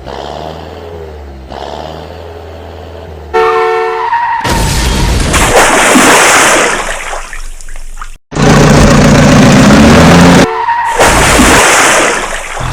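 Cartoon vehicle sound effects. A low steady engine hum is followed about three seconds in by a sudden horn-like blast of stacked tones. Then come long stretches of loud rushing vehicle noise, broken by a split-second drop-out a little past eight seconds, with another short tone near the end.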